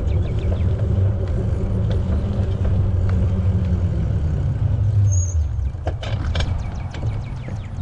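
Heavy low rumble of wind and rolling noise on a riding bicycle's camera microphone, easing off about five and a half seconds in. A quick rattle of sharp clicks follows about six seconds in.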